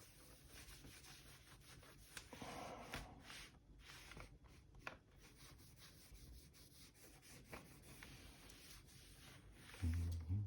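Faint rubbing and scattered light ticks of a laptop being wiped down after a spray of cleaner. A short, louder low thump comes near the end.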